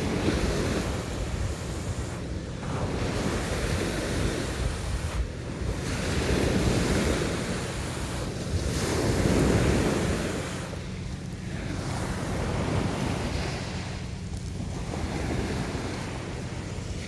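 Sea waves washing ashore, swelling and easing every few seconds, with wind rumbling on the microphone.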